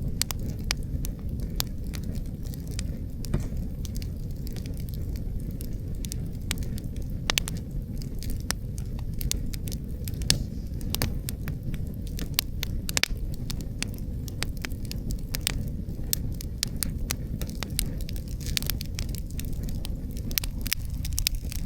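Wood fire crackling, with frequent irregular sharp pops, over a steady low rush of wind.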